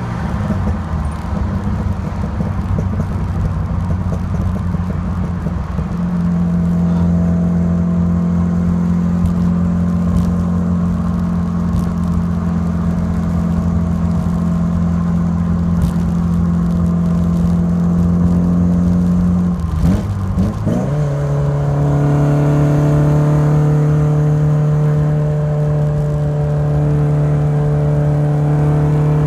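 Alfa Romeo Alfasud Sprint QV's 1.5-litre flat-four boxer engine running through its stainless-steel exhaust. It is rough and uneven at first, then holds steady revs. About two-thirds of the way through it dips briefly, then settles at a steady lower pitch.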